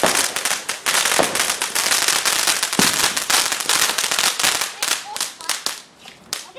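Fireworks going off in a rapid run of sharp crackling bangs, many a second, thinning out near the end.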